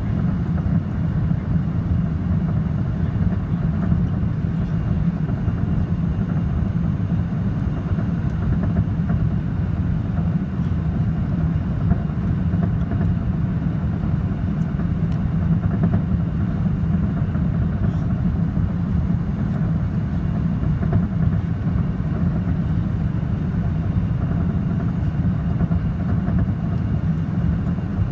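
Steady low cabin rumble of an Airbus A380 in flight, its Rolls-Royce Trent 900 engines and the airflow heard from inside the cabin, unchanging throughout.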